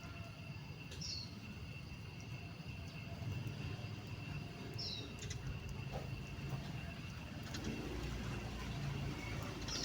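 A bird giving a short, high, falling call three times, about four seconds apart, over a steady low rumble and a faint continuous high tone.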